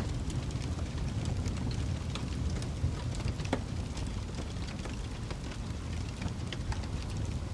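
Wood fire burning in a fireplace: a steady low rumble of flames with frequent irregular crackles and pops, one sharper pop about three and a half seconds in.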